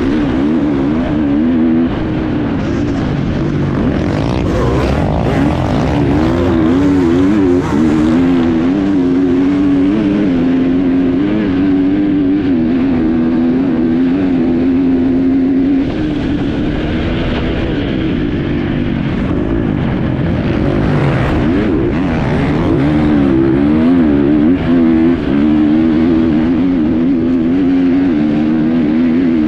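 Enduro motorcycle engine running under load, recorded on board, its revs rising and falling repeatedly with the throttle.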